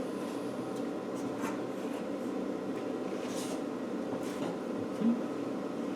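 Light scraping and rubbing of a Land Rover seat box panel being shuffled into position on the body, with a few soft knocks, over a steady workshop hum.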